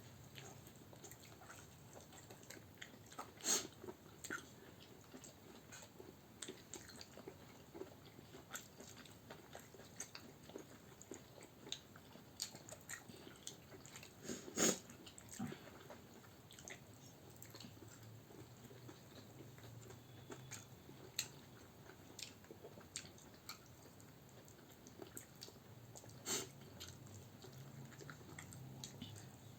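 Quiet eating sounds of chewing and biting into chicken biryani and chicken kebab, with scattered small clicks and a few louder ones about 3.5, 14.5 and 26 seconds in.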